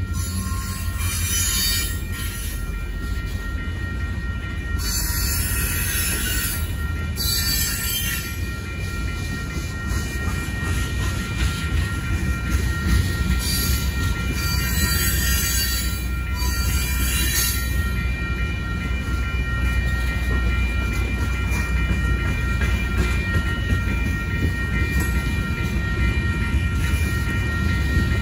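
Freight cars of a manifest train rolling over a grade crossing: a steady, heavy low rumble of steel wheels on rail. Bursts of high-pitched wheel squeal come and go, five times over the first eighteen seconds or so.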